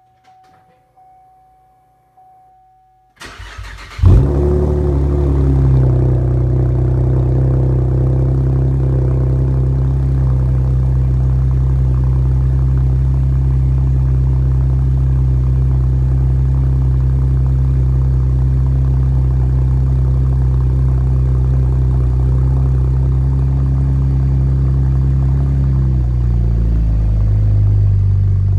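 Chevrolet Camaro RS engine cold-started: the starter cranks briefly about three seconds in, then the engine catches with a loud flare and settles into a steady, high cold-start fast idle. Near the end the idle steps down to a lower, slower pitch.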